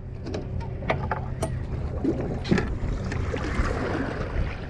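Steady low hum of a charter fishing boat's engine running at idle, with a few light clicks and a short stretch of hiss about three and a half seconds in.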